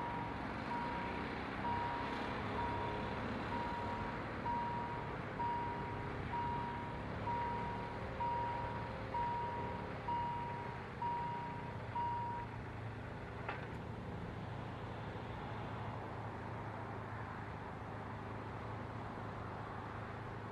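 Railroad level crossing warning signal beeping, a single tone about once a second, stopping about twelve seconds in. A short sharp click follows soon after over a steady low rumble.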